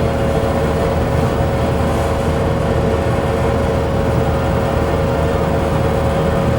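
Bowling alley room tone: a steady low rumble with a constant hum.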